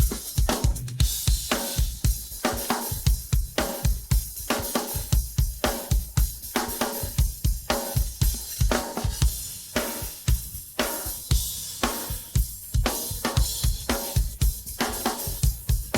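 Isolated funk rock drum kit track of a busy groove: kick drum, snare and hi-hat driving on, with cymbal wash over the top.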